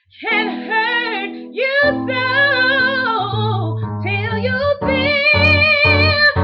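A woman singing wordless gospel ad-lib runs with a wide vibrato over sustained keyboard chords. Near the end the keyboard chords change to short, rhythmic stabs.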